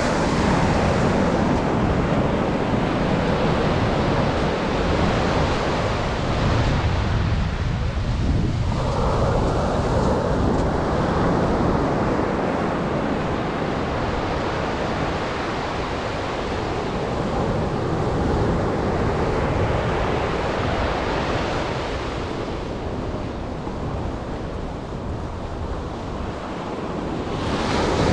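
Atlantic surf breaking and washing up a sandy beach in swells, a fresh wave surging in about nine seconds in and another near the end, with wind rumbling on the microphone.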